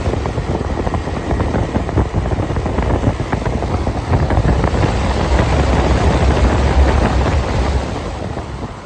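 Air conditioner running in cool mode, a steady machine noise with a heavy, uneven low rumble like moving air buffeting the microphone. It grows louder about four seconds in and eases off near the end.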